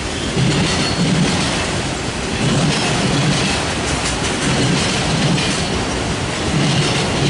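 A freight train of autorack cars rolling past at close range. The wheels make a steady rumble, with a clickety-clack swell about every two seconds as each set of car wheels goes by.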